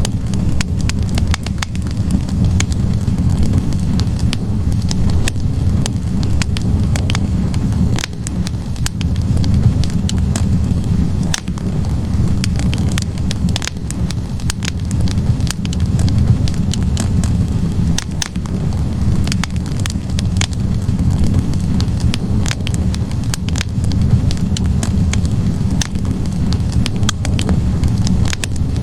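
Wood fire burning in a fireplace, logs crackling with frequent sharp pops and snaps over a steady low rumble of the flames.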